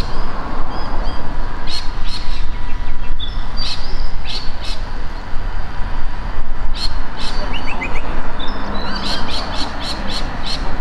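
Birds chirping and squawking in short, repeated calls, with a quick run of falling notes a little past the middle. Underneath runs a steady, loud low rumble.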